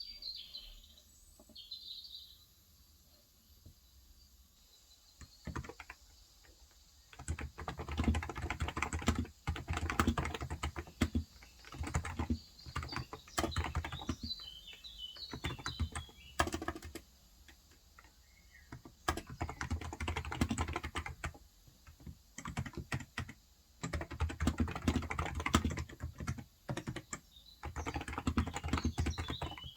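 Typing on a Cox Endeavour 35 g electro-capacitive (Topre-style) tenkeyless keyboard. The keys come in long bursts of rapid clicks that begin about seven seconds in, with short pauses between. A small bird chirps at the start, in the middle and near the end.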